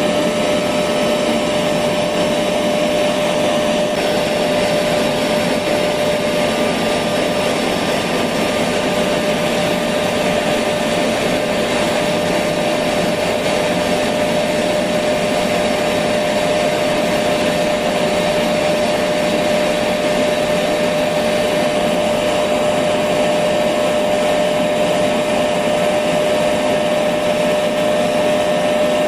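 Electric vacuum cleaner running steadily, a constant motor hum with a single held tone over airy rushing, no change in speed or pitch.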